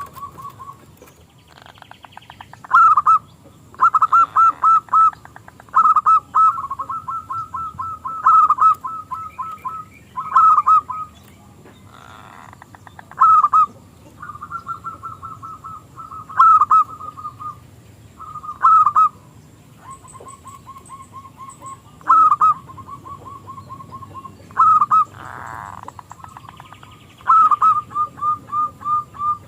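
Zebra dove (perkutut) cooing over and over: phrases of quick staccato coos, each a second or two long and repeated every few seconds.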